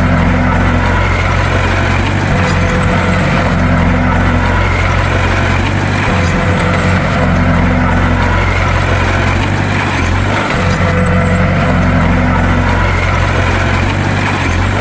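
Bulldozer's diesel engine running steadily under load, a loud low drone with a slightly higher tone that swells and fades about every two and a half seconds.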